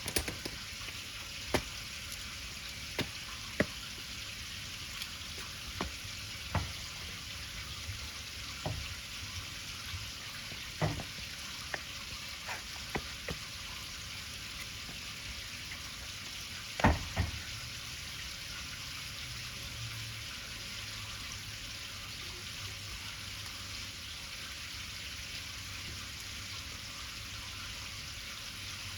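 Cooking over a wood fire: a steady sizzling hiss with scattered sharp crackles and pops, the loudest pair a little past halfway, after which only the hiss goes on.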